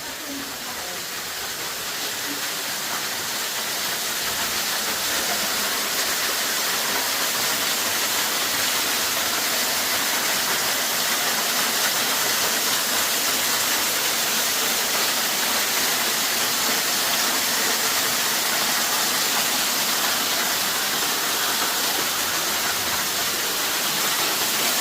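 Waterfall rushing in a steady roar of water, growing louder over the first several seconds and then holding steady.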